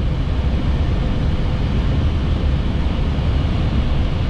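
Flight-deck noise of an Airbus A320-family airliner on short final: a steady rush of airflow and engine noise with a deep rumble and a faint steady hum.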